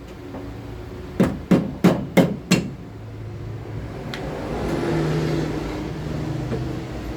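Five quick, evenly spaced hammer blows knocking a front suspension part into its seat, followed by a steady noise with a low hum that swells and fades.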